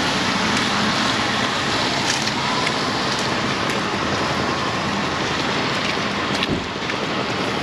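Heavy rain pouring down: a steady dense hiss, with a few faint scattered ticks.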